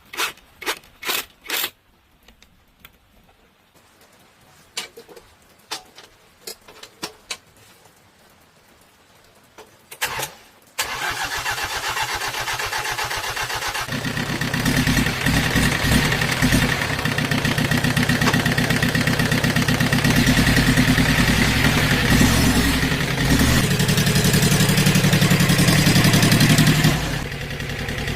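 A series of sharp metallic knocks and clicks, then about 11 seconds in a single-cylinder diesel tractor engine starts and runs steadily. It gets heavier and louder about three seconds later.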